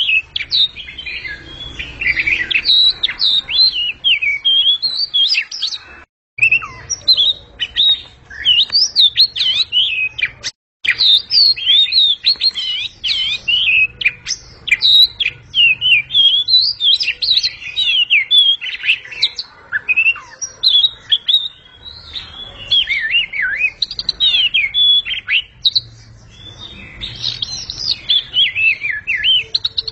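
Oriental magpie-robin (kacer) singing loudly: a fast, varied stream of high sweeping notes with hardly a pause. The sound drops out completely twice, briefly, about six and eleven seconds in.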